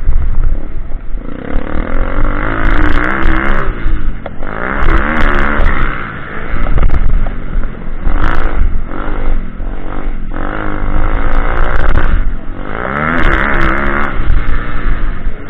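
Pitbike engine running hard, loudly revving up and dropping back every few seconds as the throttle is opened and closed through the track, with some clatter.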